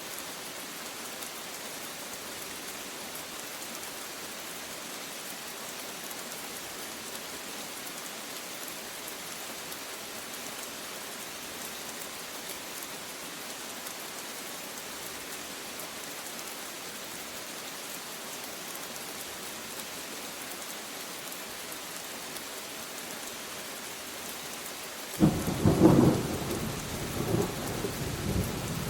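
Steady rain falling for most of the stretch, then a sudden loud thunderclap near the end that rolls on in a few rumbling swells over the rain.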